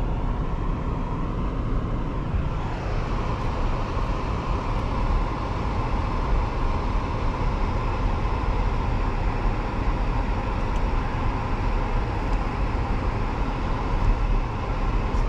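Steady car cabin noise from a moving car: a constant low engine and road rumble with no distinct events.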